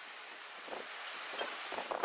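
Wind noise on the microphone, with a few faint scrapes and knocks in the second half.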